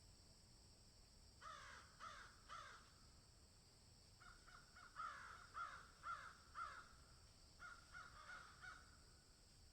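Faint bird calls in three runs of short repeated calls, about two a second: three calls, then a longer run of about eight, then four more near the end, over a steady high background hiss.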